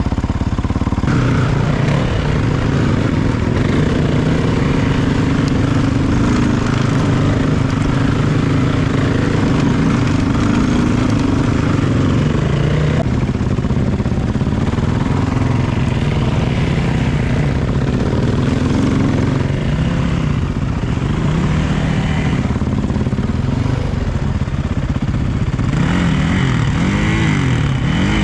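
Off-road motor vehicle engine running under way, its pitch rising and falling with the throttle as it rides, with quick revs up and down near the end.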